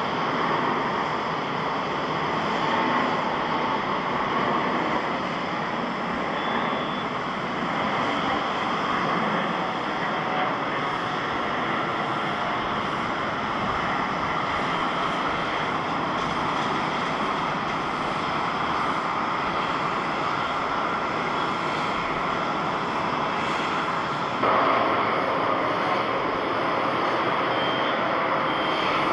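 Japan Airlines Airbus A350 jet engines running with a steady roar-like noise. About 24 seconds in, the sound changes abruptly and becomes slightly louder as another jet airliner takes over.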